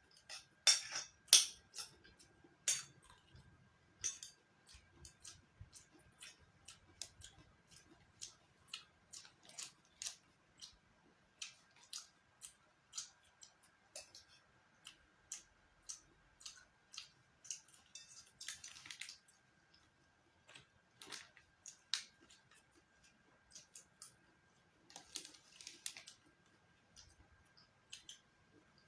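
Eating sounds: a string of short, sharp clicks and clinks of utensils against dishes, roughly one a second, loudest in the first few seconds.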